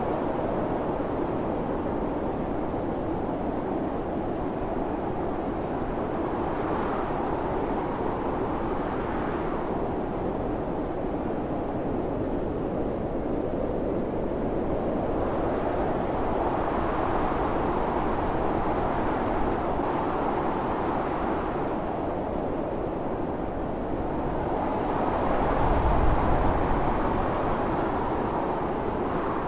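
Howling blizzard wind blowing steadily, swelling and easing in slow gusts, with a stronger gust and a low rumble near the end.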